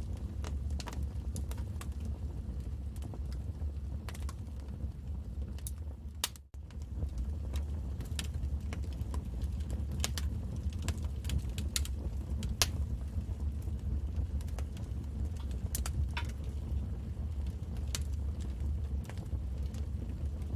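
Wood fire crackling in a fireplace: irregular sharp pops and snaps over a steady low rumble of the burning logs. The sound cuts out for a split second about six seconds in.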